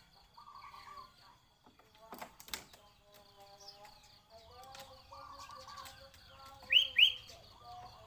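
Caged birds calling: a short rolling trill repeated twice, with softer warbling notes, then two loud, sharp rising chirps close together near the end. A single sharp click about two and a half seconds in.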